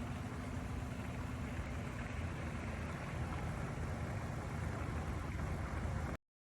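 Steady low mechanical hum with background noise, like an engine idling nearby, cutting off abruptly about six seconds in.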